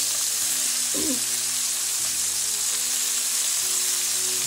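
Chicken thighs frying in a hot skillet of olive oil and butter: a steady, even sizzle.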